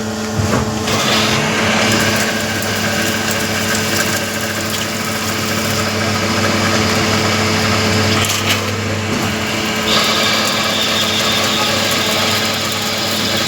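CNC machine running while it cuts a sleeve with a 5 mm bore: a steady machining noise with held tones, whose tone changes about ten seconds in.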